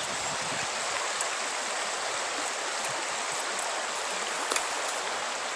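River water rushing steadily, an even rush of flowing current, with a faint click about four and a half seconds in.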